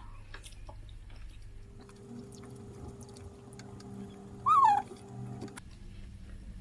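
A brief high-pitched whine that falls in pitch, about four and a half seconds in, over faint clicks of chewing and a low steady hum.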